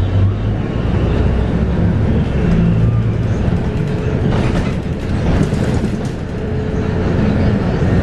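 Scania K230UB bus heard from inside the cabin: its Scania DC9 five-cylinder 8.9-litre diesel running with the ZF Ecomat automatic gearbox, the engine note shifting in pitch during the first few seconds. A few brief rattles come from the body around the middle.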